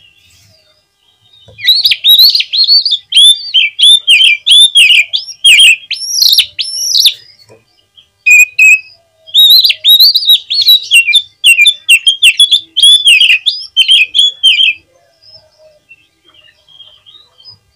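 Oriental magpie-robin (kacer) singing loud, fast strings of sweeping whistled notes in two long bouts with a short break between them. This is the full 'gacor' song used as a provoking call to stir other magpie-robins into song and tail-spreading.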